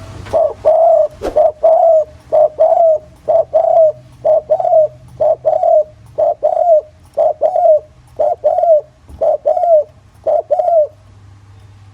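Spotted dove cooing: a fast run of short paired coos, about one pair a second, that stops near the end.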